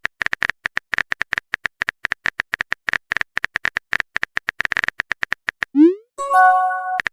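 Phone-keyboard typing clicks, several a second, then near the end a short rising swoosh and a bright notification chime as a message is sent.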